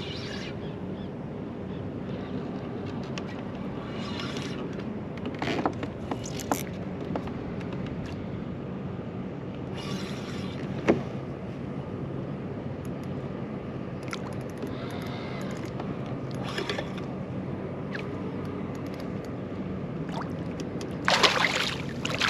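Water sloshing and gurgling against a kayak hull, with scattered small splashes and knocks and a louder splash about a second before the end.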